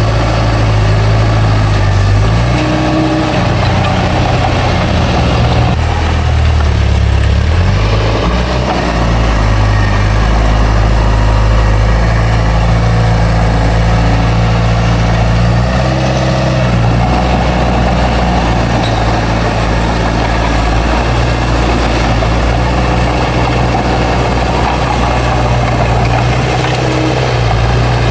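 Bulldozer's diesel engine running under load, its pitch shifting up and down a few times as the machine works.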